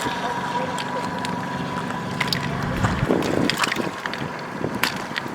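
Floodwater running with wind on the microphone, and scattered small clicks.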